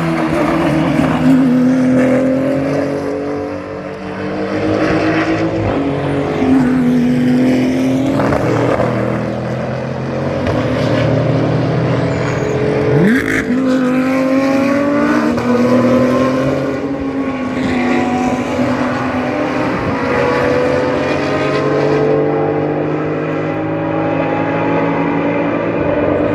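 Several GT race car engines running hard on track, overlapping, their pitch climbing and dropping back again and again as they accelerate through the gears.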